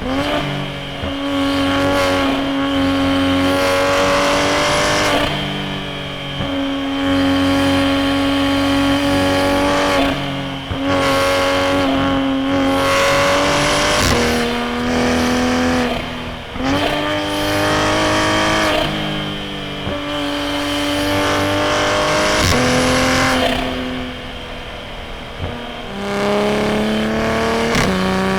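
Toyota A90 Supra's turbocharged B58 straight-six running through a straight-piped titanium single-exit exhaust, driven hard in a string of pulls. The engine note holds or climbs under throttle, then drops away suddenly several times at lifts and shifts, with quieter off-throttle stretches between.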